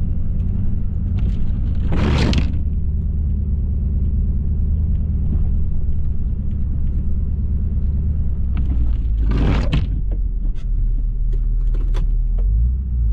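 A 2018 Ford F-350's 6.7-litre Power Stroke V8 turbo-diesel running with a steady deep rumble. Two brief rushing noises come through, about two seconds in and again near the ten-second mark.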